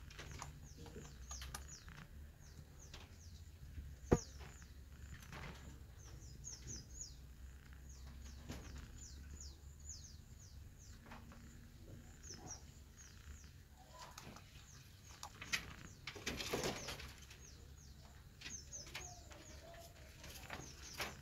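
Small birds chirping over and over, short high calls that drop in pitch, over a faint steady hum. There is a sharp click about four seconds in and a brief rustling burst near the end.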